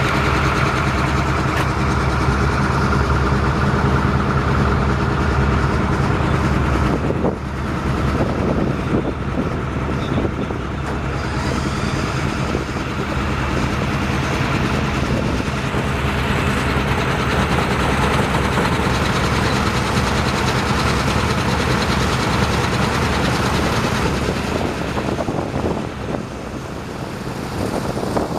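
Truck engine running steadily at idle, a continuous low hum; about seven seconds in the sound turns rougher and noisier.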